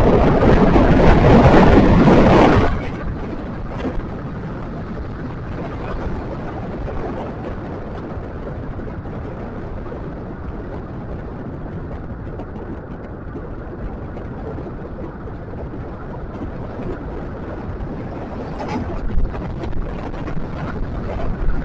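Wind and road noise while riding a scooter along a road: a louder rush for the first two to three seconds, then a steady lower rumble and hiss.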